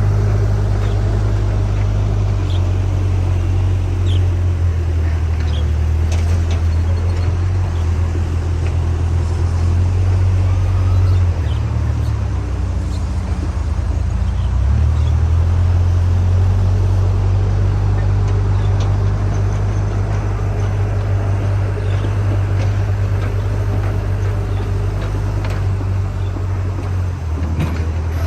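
Backhoe loader's diesel engine running steadily with a low hum. The note drops and shifts for a few seconds near the middle, then settles again. Faint short clinks are heard here and there.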